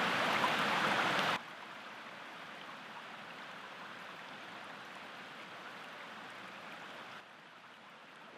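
Steady rushing of a flowing stream, loud at first, then dropping suddenly to a quieter, even rush about a second and a half in, and dropping again near the end.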